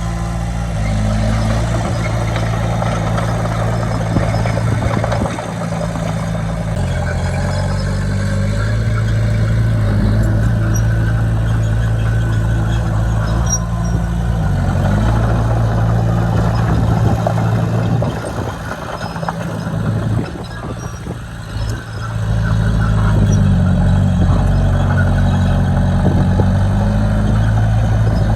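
Heavy diesel engine of earthmoving machinery running under work, its engine speed stepping up and down, with a brief lull about two-thirds through.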